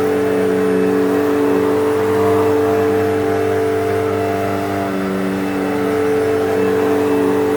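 Eureka Whirlwind bagless upright vacuum cleaner running steadily, its motor whine holding one pitch.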